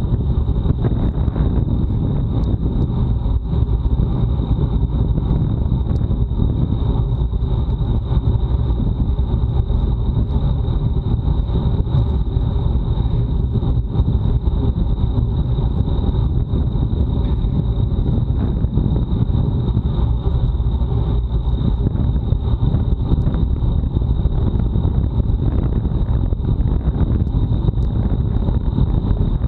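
Wind buffeting an action camera's microphone on a bicycle ridden fast, a loud steady rumble, with a thin steady high-pitched whine over it.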